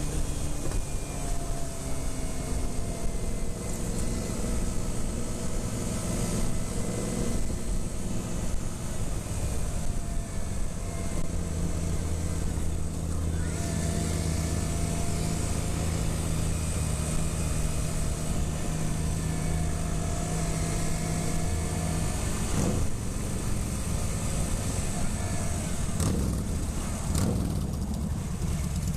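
Small motorcycle engine running on the road, its pitch slowly rising and falling with the throttle, over a steady rush of noise.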